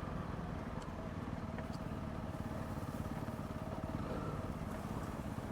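Honda CRF300 Rally's single-cylinder engine running steadily at an even speed, with a few faint clicks over it.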